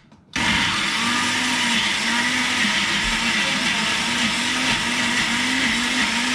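Electric blender switching on about a third of a second in and running steadily, blending fresh aromatics and oil into a thick spice paste; its motor hum wavers up and down about one and a half times a second as the load turns over.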